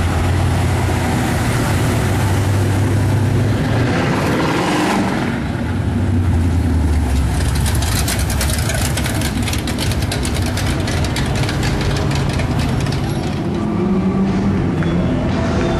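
Muscle-car V8 engines running loud as cars drive past: a deep, steady engine rumble for the first several seconds, then a car passing close with a rapid, choppy exhaust pulse for a few seconds.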